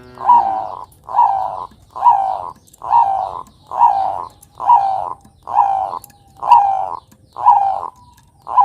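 A zebra dove (Bangkok perkutut) cooing: about ten short coo notes repeated at an even pace, a little under one a second.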